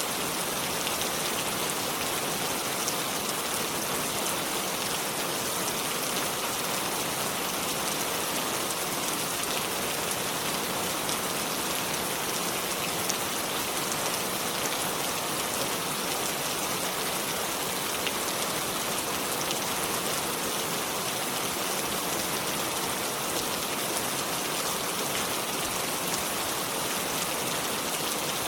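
Steady rain falling, a dense even hiss with fine drop patter throughout.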